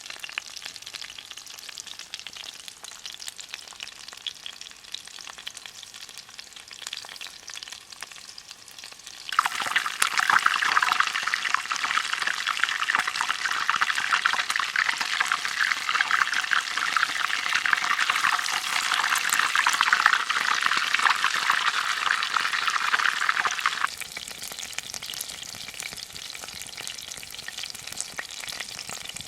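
Chicken cutlets deep-frying in hot oil in a cast-iron skillet over a campfire, a dense steady sizzle and crackle. About nine seconds in the frying turns suddenly much louder and busier, then drops back to the quieter sizzle near the end.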